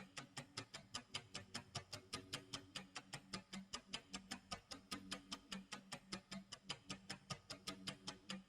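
Clock tick-tock sound effect: rapid, even ticks, several a second, over low tones underneath.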